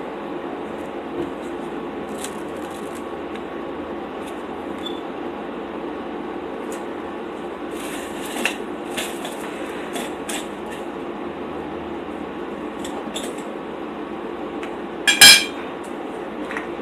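Cutlery clicking and clinking against a plate, with one loud sharp clink about fifteen seconds in, over a steady low hum.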